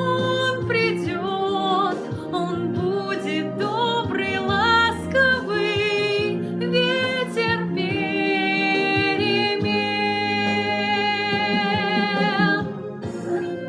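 Solo female voice singing a slow song over an instrumental backing. Near the end it holds one long note for about four seconds, then breaks off.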